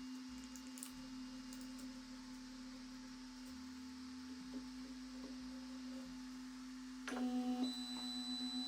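Ender 3 3D printer giving a steady electrical whine, with a few faint ticks. Near the end it jumps to a louder whine with a higher tone added.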